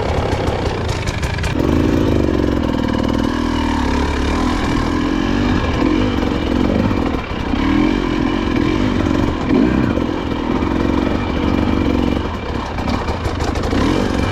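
Off-road motorcycle engine running under throttle, its revs rising and falling as it is ridden.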